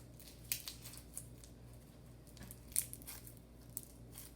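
Slime being squeezed and stretched by hand, giving irregular sticky clicks and crackling pops, the sharpest about half a second in and near three seconds in.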